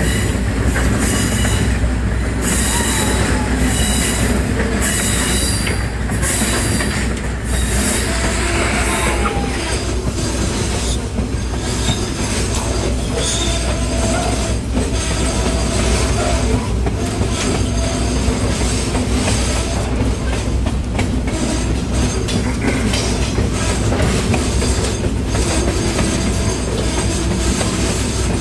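Passenger train rolling along the track with a steady rumble, its wheels clicking over the rail joints and squealing against the rails. Regular hissing pulses repeat about once a second for the first eight seconds or so, then fade.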